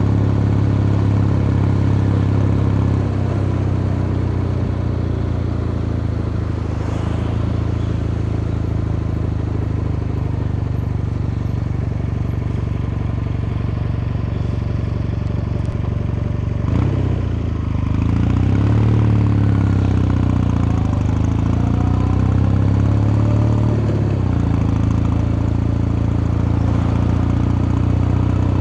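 Kawasaki Meguro K3's 773 cc air-cooled vertical-twin engine running steadily with a deep, even hum. About 17 seconds in the sound briefly changes, and for several seconds after, tones rise and fall over the steady hum before it settles again.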